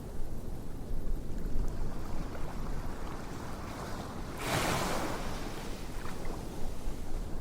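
Steady low rushing noise, like waves or wind, with one brief louder rustle a little over halfway through.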